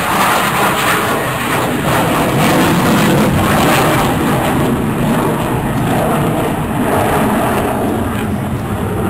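F-15 fighter's twin jet engines, a loud steady roar with no pauses.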